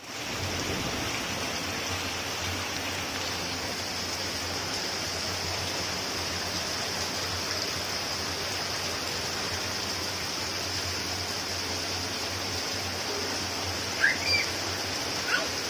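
Heavy rain pouring steadily onto a flooded road: a dense, even hiss of rainfall and running water. Near the end a brief high-pitched rising call cuts through once.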